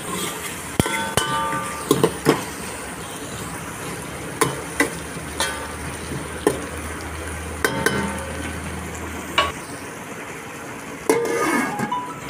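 Potato pieces and curry leaves sizzling as they fry in an aluminium pot, with a steel spoon stirring and scraping and striking the pot in sharp clinks that ring briefly. Near the end the aluminium lid is set on the pot with a clatter.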